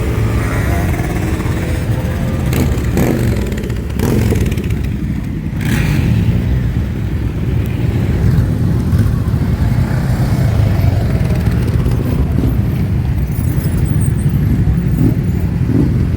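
A group of motorcycles riding past in a parade: many engines running together in a steady low rumble, with brief revs now and then.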